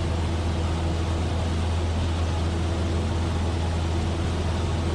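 Cessna 172F's Continental O-300 six-cylinder engine and propeller droning steadily in cruise flight, heard from inside the cabin: a constant low hum with a few steady tones above it.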